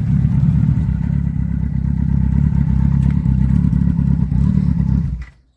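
Motorcycle engine running steadily with a low, even sound, cutting off suddenly about five seconds in.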